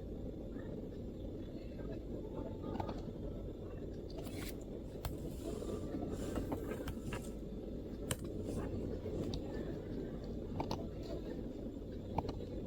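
Sparse, irregular clicks of MacBook keyboard keystrokes, a few here and there, over a steady low background rumble.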